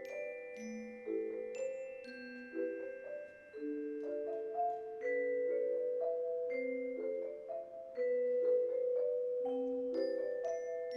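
A mallet percussion ensemble playing a waltz: ringing low notes about every second and a half with chord notes between them, and short high bell-like pings on top.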